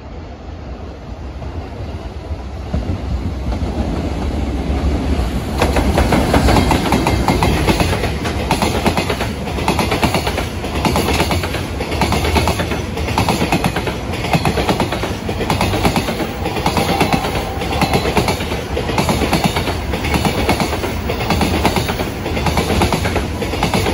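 EF510 electric locomotive approaching and running past, followed by a long freight train of container wagons. The sound builds from the start, gets loud about five seconds in as the locomotive passes, then holds as a steady rumble with a regular clickety-clack of the wagons' wheels over the rail joints.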